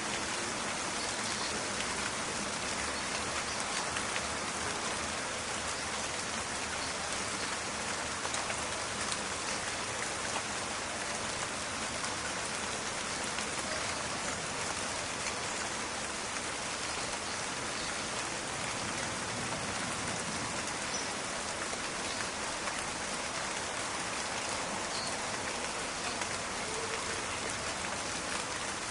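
Steady rain falling in a forest, a dense patter of drops on leaves and ground with fine crackling.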